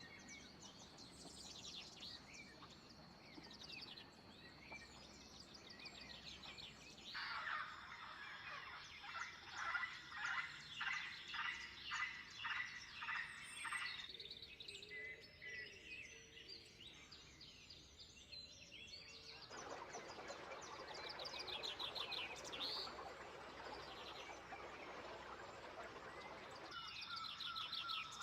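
Several songbirds chirping and singing, with short high calls and trills throughout and a fast run of repeated calls in the middle. A steady rushing hiss sits under the birds for several seconds later on, and the background changes abruptly a few times.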